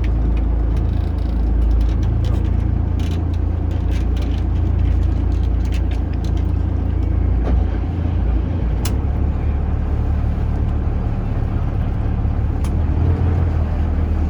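Taxi boat's engine running under way, a steady low drone heard on board; the lowest part of the drone dips briefly about eight seconds in and then returns.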